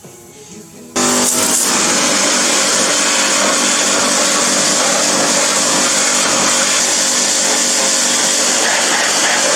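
A pressure washer cuts in suddenly about a second in and runs steadily: a motor hum under a loud, even hiss of spray, blasting grease off a Toyota Hilux transmission.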